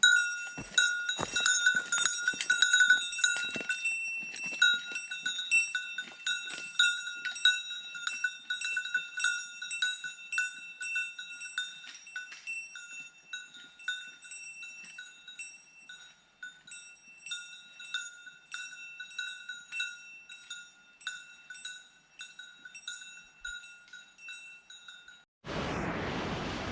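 Small metal bell jingling over and over in an uneven rhythm, a few strikes a second, gradually getting fainter and stopping abruptly near the end.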